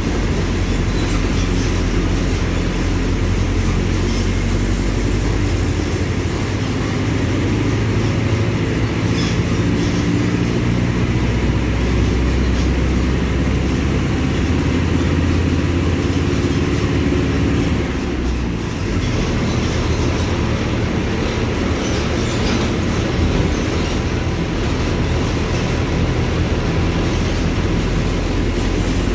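Mercedes-Benz OF-1721 BlueTec 5 bus's six-cylinder diesel engine running under way. Its note shifts up and down several times as the bus drives and changes gear, with a short dip in loudness about eighteen seconds in.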